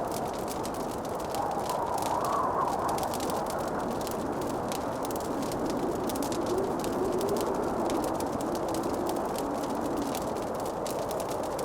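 Fireplace wood fire crackling, with many small sharp pops, over a steady low rushing noise.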